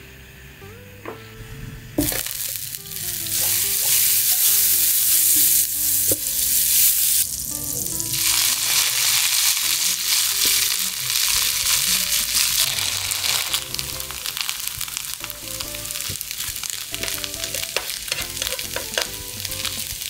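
Butter and grated potato frying in a hot pan, a steady sizzle that starts sharply about two seconds in, with a few light knocks.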